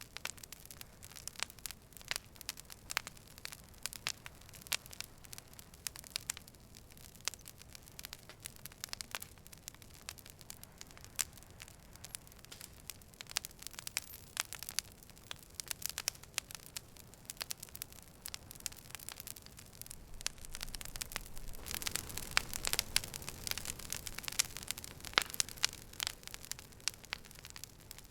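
Campfire crackling, with irregular sharp snaps and pops over a low, steady rush of flame. The pops come thicker and louder for a few seconds a little past the middle.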